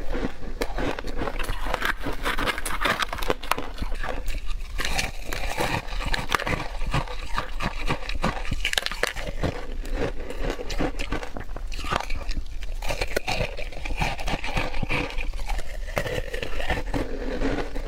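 Close-miked chewing of crushed, shaved ice: a dense, irregular run of sharp crunches and crackles.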